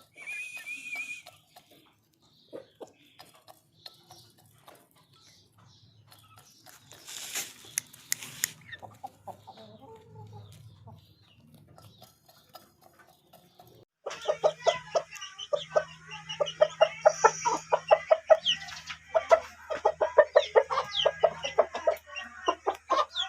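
Aseel chickens clucking. Near the start there is a short high call and a brief rustle, then from about two-thirds through comes a loud, rapid run of clucks.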